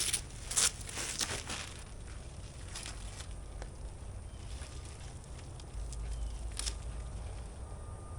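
A few short crinkling, tearing bursts of handled material, most in the first second and a half and again about three and six and a half seconds in, over a low wind rumble on the microphone.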